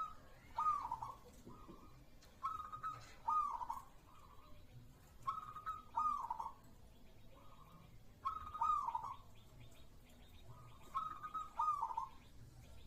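Zebra dove (perkutut) singing its cooing song: a held note running into a rolling, warbled coo, repeated about every three seconds.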